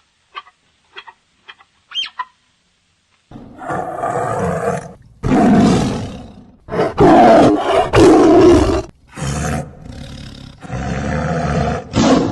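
Lion roaring: a series of loud, pitched calls with short gaps between them, starting about three seconds in after a few faint short sounds.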